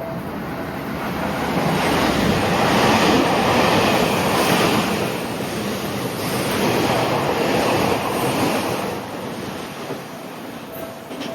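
Electric train passing close along a station platform at speed: a loud rush of wheel, rail and air noise that builds, swells twice and begins to fade near the end.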